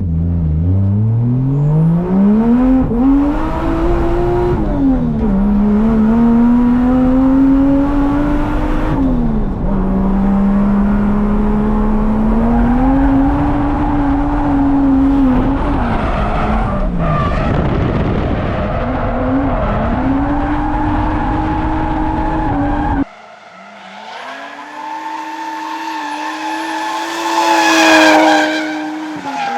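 Drift car's engine revving up and falling back again and again as it is driven hard through corners. About three quarters through the sound changes abruptly to a thinner engine note, and tyres squeal in a slide near the end.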